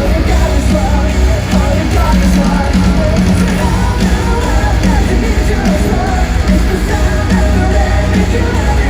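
Electronic metalcore band playing live at full volume: heavy distorted guitars, pounding bass and drums, with sung and shouted vocals over the top, heard with the boom of a large arena.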